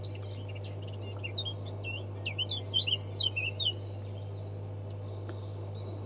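A small bird chirping in a quick run of short, high notes for a few seconds, starting about a second in, with a steady low hum underneath.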